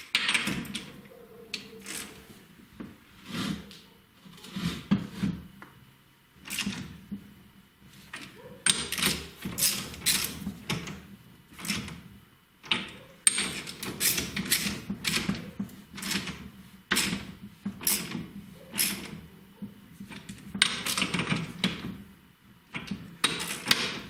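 A wrench tightening nuts onto the clamp bolts of a motorcycle's leading-link front fork: bursts of rapid metallic clicking and clinking, with pauses between.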